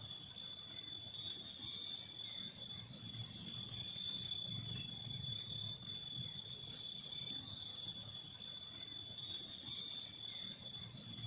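Forest insects buzzing steadily in several unchanging high tones, one shrill constant pitch standing out, over a low rumble.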